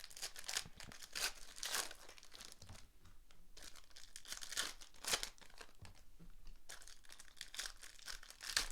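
Trading card pack wrappers being torn open and crinkled by hand: a run of short, sharp crackling rips and rustles.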